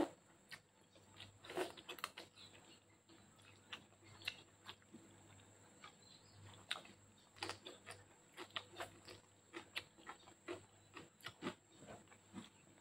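Close-up eating sounds of a person chewing spaghetti with raw lettuce: irregular wet mouth smacks and small crunches, with a louder slurp right at the start.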